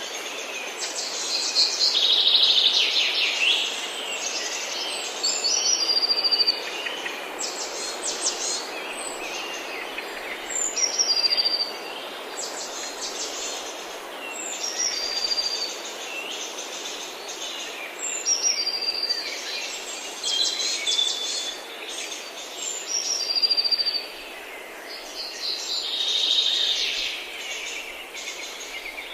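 Forest birds singing, short high whistled notes and fast trills repeated every couple of seconds, over a steady background hiss.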